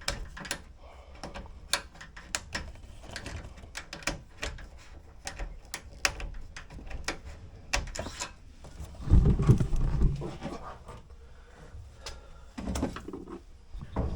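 Scattered sharp clicks and knocks of parts and tools being handled, with one heavier low rumbling thud lasting about a second, roughly nine seconds in.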